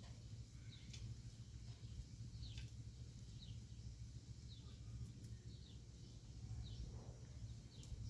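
Faint bird chirps, short and falling in pitch, repeating about once or twice a second over a steady low rumble.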